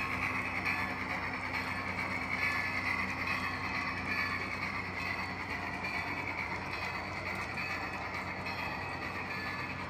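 HO scale model train running along the track with a steady mechanical whir.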